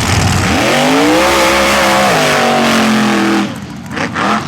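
Mud-racing truck engine at full throttle, its pitch climbing over the first second and then holding high with a small step up, over a loud wash of noise; it cuts off sharply about three and a half seconds in.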